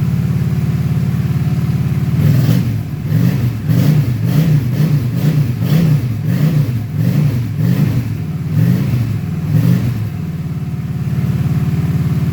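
Honda Shadow 750 V-twin motorcycle engine idling. About two seconds in it is revved in about ten quick throttle blips, a little more than one a second. After some eight seconds it settles back to a steady idle.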